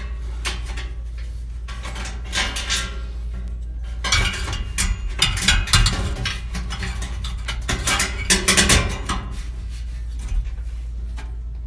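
Metal clinking and clattering from oven parts and tools being handled, in bursts about four and eight seconds in, over a steady low hum.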